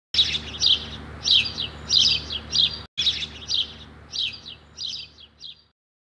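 Birds chirping: quick clusters of high, downward-sliding chirps, a cluster every half-second or so. The sound drops out for an instant about three seconds in and stops shortly before the end.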